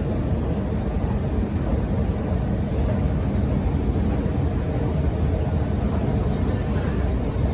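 Steady low mechanical rumble and hum of an escalator running.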